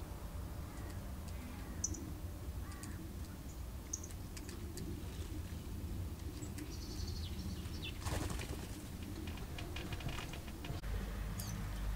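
Wild birds giving scattered short chirps and calls, some falling in pitch, over a steady low rumble, with faint clicks and a short rustle about eight seconds in.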